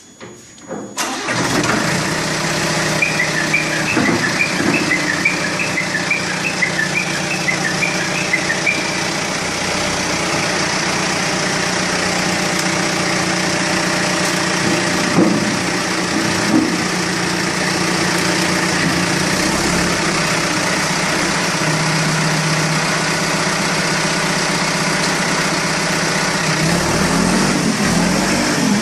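Diesel engine of a BULL backhoe loader starting about a second in, then running steadily.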